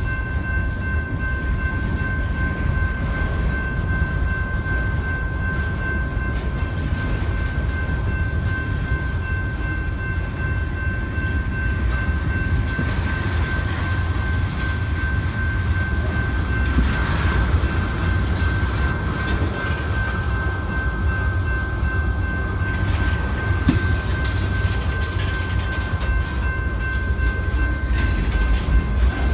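Freight train cars rolling past on the rails: a steady, dense low rumble of wheels and trucks, with a constant high-pitched tone over it.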